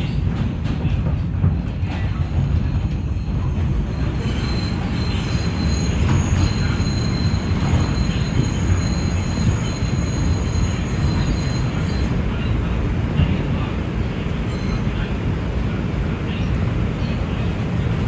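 R142 subway train running on the track: a steady, loud low rumble of wheels and car body. From about four seconds in to about twelve seconds a thin high squeal sounds over it.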